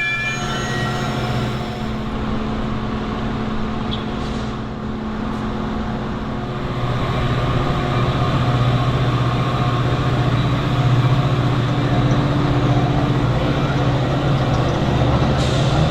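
A heavy engine running with a steady low drone over a rumbling background, growing louder about seven seconds in.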